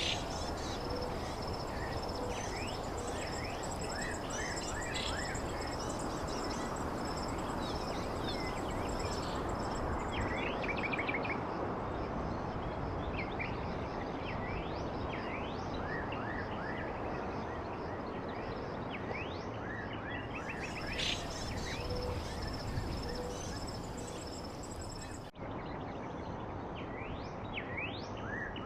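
Several small birds chirping, trilling and whistling in quick, overlapping phrases over a steady rushing background noise. The sound cuts out for an instant near the end.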